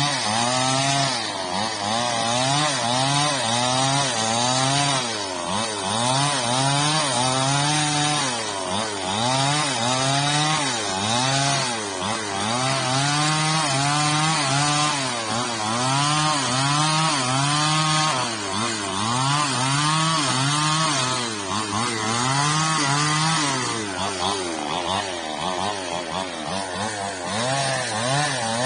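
Chainsaw engine revving up and down over and over, about once a second, as it cuts the old frond stubs off an oil palm trunk to trim it flush.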